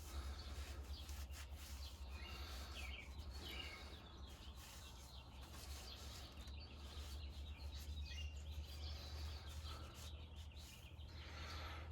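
Faint bird chirps, short calls scattered throughout, over a steady low hum.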